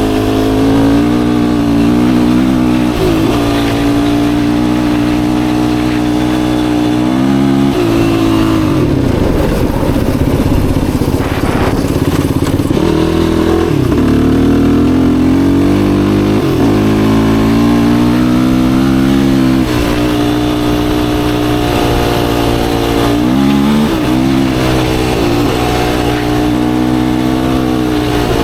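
Yamaha YFZ450R quad's single-cylinder four-stroke engine running under way, its pitch climbing and dropping again and again with throttle and gear changes. About a third of the way in, the steady engine note breaks up into a rougher stretch for a few seconds.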